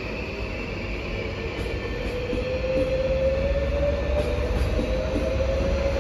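HŽPP low-floor passenger multiple unit passing close by, its wheels rumbling on the track. A thin whine from its drive rises slowly in pitch, and the sound grows a little louder after the first few seconds.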